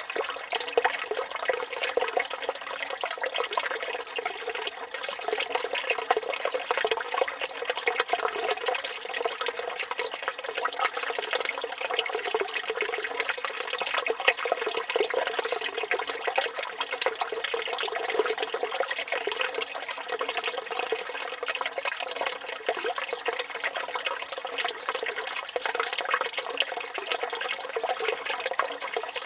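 Water pouring steadily from the spout of a village fountain (çeşme) and splashing into the stone basin below, a continuous spatter without pause.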